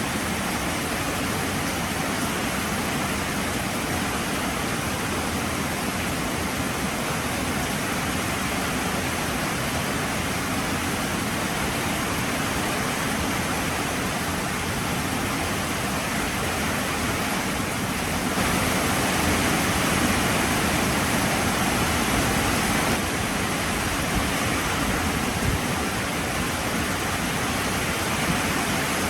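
Heavy rain falling in a steady, dense hiss, swelling slightly louder for a few seconds past the middle.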